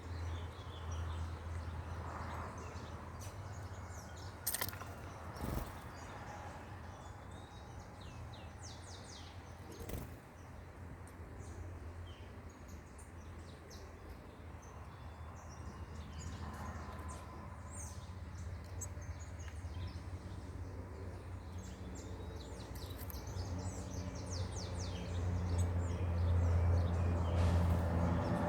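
Small birds chirping, many short high calls scattered throughout, over a low steady hum that grows louder near the end.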